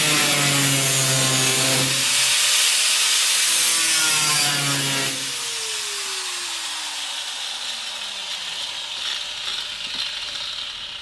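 Angle grinder with a cutoff wheel cutting through the sheet-steel of a pickup bed, loud in two spells over the first five seconds. It is then released and spins down, its whine falling steadily over about three seconds.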